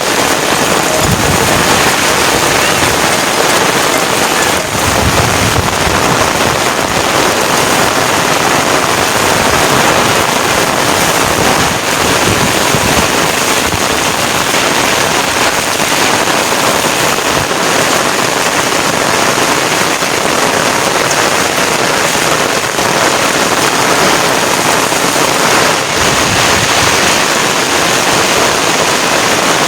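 Heavy, steady rain falling.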